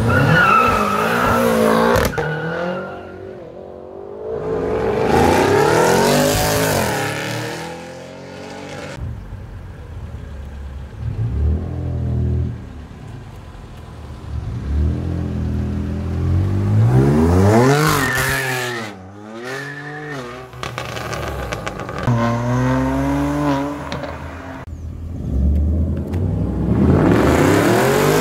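Performance cars, a BMW M5 saloon and a BMW M2 coupe among them, accelerating hard away one after another; each car's engine revs up in rising glides broken by gearshifts, then fades, about six passes in all.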